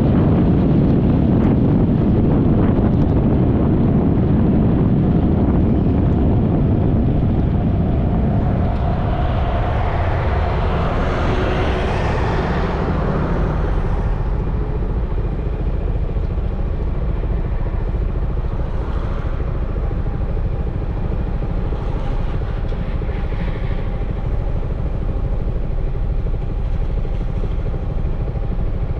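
Yamaha XMAX 300 scooter's single-cylinder engine running, with heavy wind and road rumble that eases after several seconds. A hiss swells and fades near the middle, then the engine runs on more quietly.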